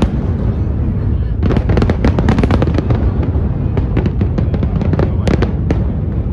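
Aerial fireworks display: a rapid barrage of shell bursts and crackle over a continuous low booming, with denser volleys about a second and a half in and again around four seconds.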